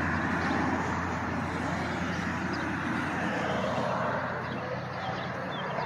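A car engine idling steadily, its low hum weakening toward the end, under the background chatter of people outdoors.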